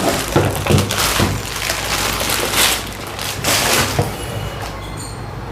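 Handling noise: irregular rustling, scraping and a few light knocks as a small plastic appliance is moved about and shown, busiest in the first few seconds and then quieter.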